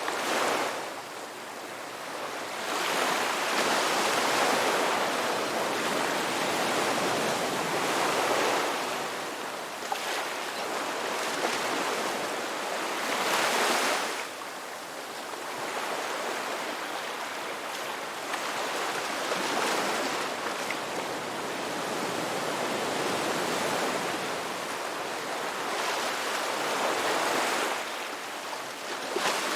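Ocean surf breaking and washing up a beach, swelling into a rush of water about every six seconds and then ebbing.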